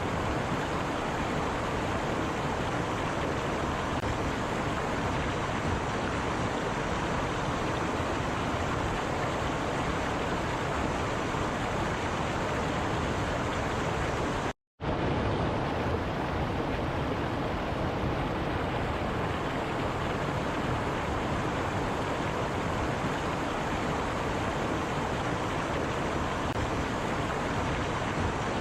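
A stream's water rushing steadily, an even noise with no rhythm, cut off to silence for a moment about halfway through.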